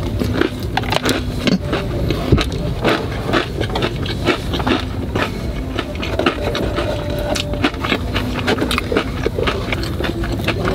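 Close-miked eating of a crispy fried chicken burger: bites and chewing with many sharp, irregular crunches, over a steady low rumble.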